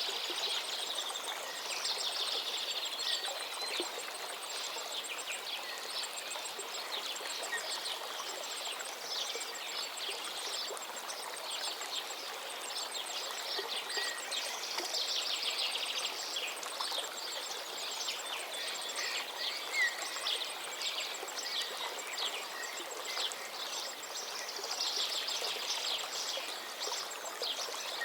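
A forest river flowing steadily, with songbirds singing over it in repeated trilled phrases every several seconds.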